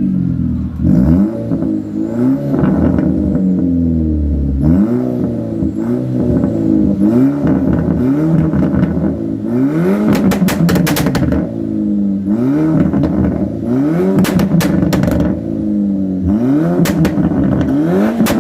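Volkswagen Golf Mk5 fitted with an aftermarket sport exhaust, revved in repeated short blips, the engine note rising and falling back each time. In the second half, bursts of sharp crackles and pops come from the exhaust as the revs drop.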